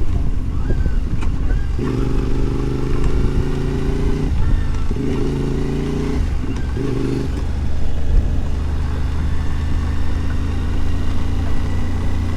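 Adventure motorbike engine running on a gravel ride over a constant low rumble. Its note comes and goes three times in the first seven seconds, as throttle is given and eased, then settles into a steadier, lower drone.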